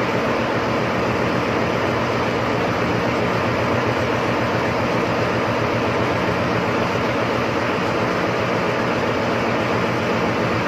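Steady, loud machinery noise of a ship's engine spaces: a constant rushing din with a low hum of several steady tones under it, unchanging throughout.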